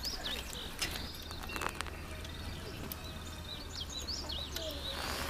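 Small birds chirping repeatedly in short rising and falling notes, with a few sharp clicks scattered through.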